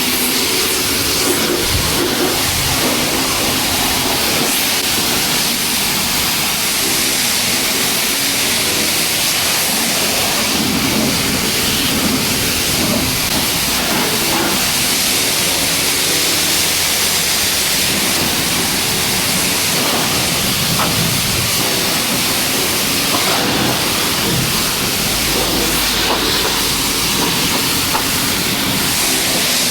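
High-pressure spray wand at a self-serve car wash jetting water onto a car's body: a loud, steady hiss of spray.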